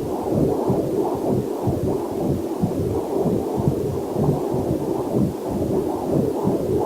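Fetal Doppler heart monitor picking up rapid whooshing heartbeat pulses, about two to three a second, with a faint waterfall hiss mixed in beneath.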